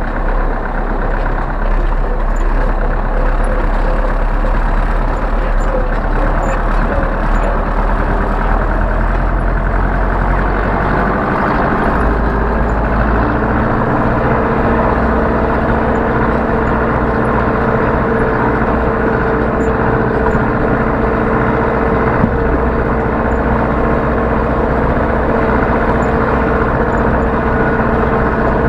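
Zetor 7011 tractor's four-cylinder diesel engine running steadily. About twelve seconds in its note changes, and a steady whine then sits over the engine.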